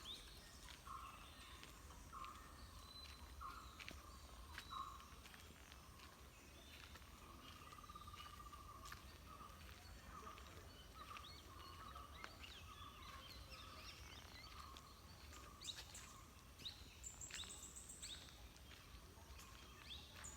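Faint rural outdoor ambience with birds calling: a short note repeated roughly once a second, with scattered higher chirps.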